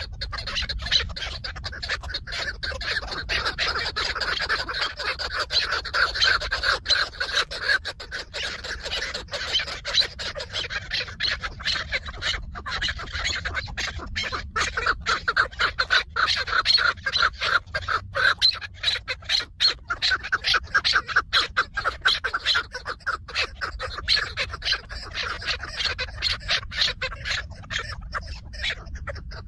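Chukar partridges calling: a long run of rapid, repeated short call notes that goes on throughout.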